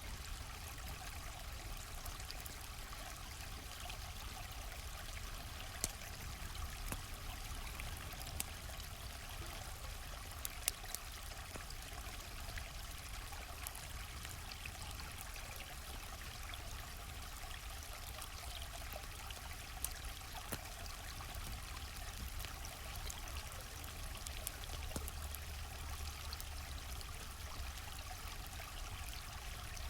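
A flowing stream's steady rush of water, with a few sharp pops from a crackling campfire scattered through it, two of them close together about a third of the way in.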